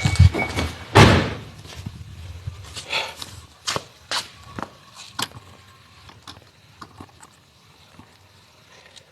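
Knocks and clicks of hand work in a car's interior: low thumps, then a loud sharp bang with a short ring about a second in, followed by scattered lighter clicks and knocks that die away after about five seconds.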